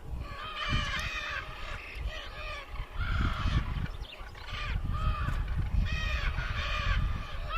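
Steller's jay giving a series of harsh, repeated calls, several in quick succession, with a low rumble underneath.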